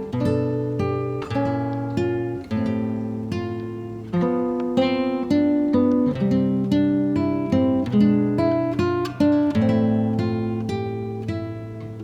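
Acoustic guitar music: a steady run of plucked notes and chords, each ringing out and fading.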